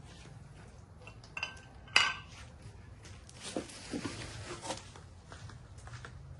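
Metal clinking: two sharp ringing clinks, the second and louder about two seconds in, then a spell of metal scraping with a few lighter knocks.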